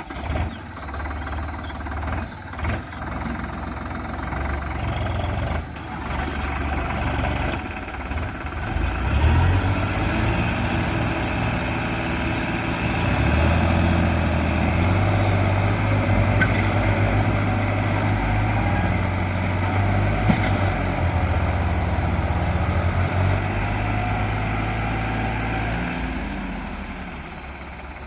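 Tractor diesel engine running, getting louder about nine seconds in and again around thirteen seconds, then easing off near the end.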